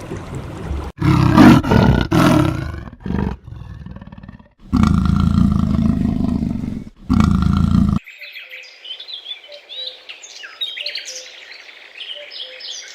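A big cat roaring and growling in several loud bursts. About eight seconds in, it cuts abruptly to songbirds chirping quickly and more faintly.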